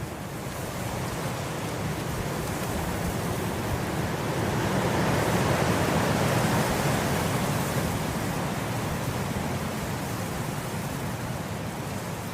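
Wind blowing through grass: a steady rushing that swells into a gust about halfway through, then eases off.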